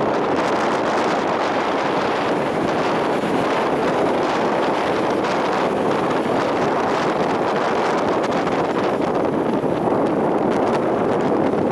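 Gale-force wind buffeting the microphone in a steady, loud rush, mixed with the noise of a storm-driven sea.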